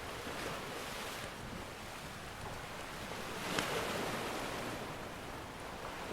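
Ocean surf washing in steadily, with waves swelling near the start and again past the middle. A single fire crackle pops about halfway through.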